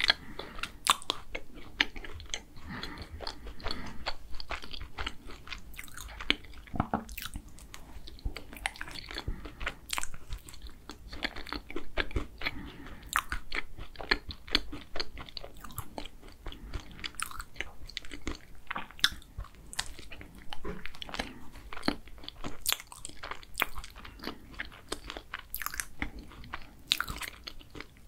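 Close-miked eating of a chocolate tart: bites and chewing, with crunching of the crust and many small, irregular mouth clicks.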